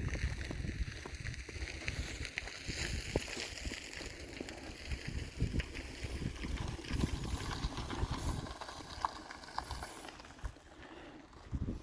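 Wind buffeting the microphone outdoors, with scattered light clicks and knocks, which may be footsteps.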